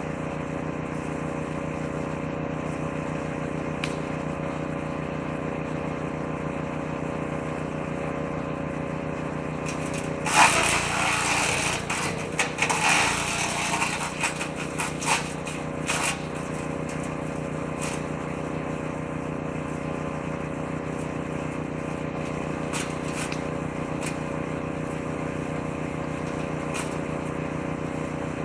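Engine-driven woodchipper running steadily. From about ten seconds in, for about six seconds, a louder, crackling, uneven clatter as material is fed in and chewed up by the shredder drum, then back to the steady running.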